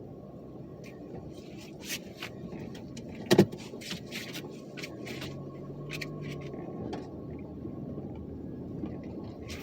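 A car running with a steady low engine and road rumble, scattered light clicks, and one sharp knock about three and a half seconds in.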